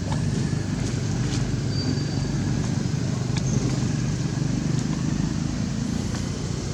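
Steady low drone of a running motor, with a few faint clicks over it.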